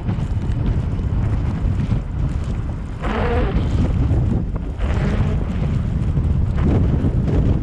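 Steady low rumble of wind and road noise from a vehicle driving through a snowstorm, with a brief louder hiss about three seconds in and again about five seconds in.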